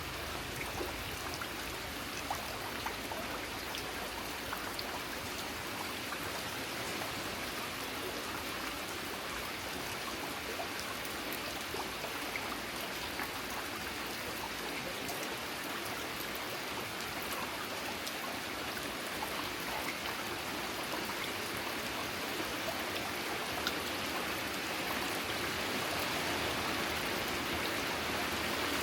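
Steady rain falling, with many small drop ticks scattered through it; it grows a little louder near the end.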